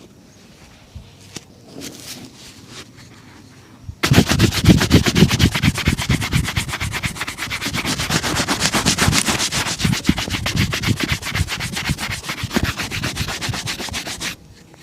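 A shoe being buffed during a shoe shine, with vigorous, rapid back-and-forth strokes. It starts suddenly about four seconds in, after a few faint rubs, and stops abruptly near the end.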